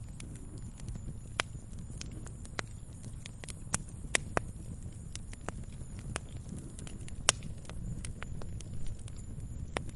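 Wood fire crackling in a fireplace: irregular sharp snaps and pops over a steady low rumble of the flames, with a few louder pops, the loudest about seven seconds in.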